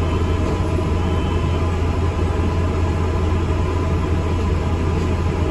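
ADL Enviro 400 MMC double-decker bus under way, heard from on board: a steady low engine drone under road and cabin noise.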